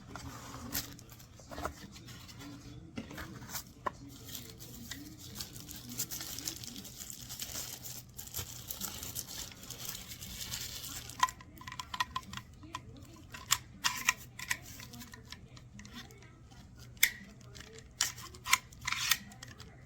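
Cardboard and plastic packaging being handled and torn open: rustling and tearing, with sharp clicks and taps that come more often in the second half.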